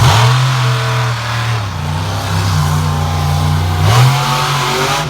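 Monster truck engine running loudly, with sharp revs at the start and again about four seconds in.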